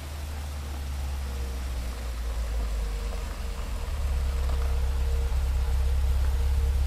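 Car engine sound effect of a car being driven fast: a deep, steady rumble that grows gradually louder, with a faint steady whine above it.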